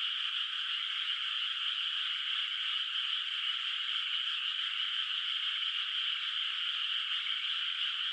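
A dense chorus of many frogs calling from a flooded rice paddy. The calls overlap into a continuous, even wall of sound with no lulls.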